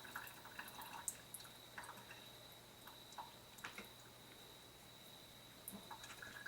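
Faint, scattered drips and small splashes of salty brine draining off sliced cucumbers, thinning out after the first couple of seconds.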